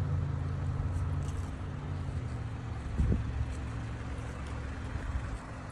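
A 2018 BMW X1's engine idling steadily with a low hum, and a single thump about three seconds in.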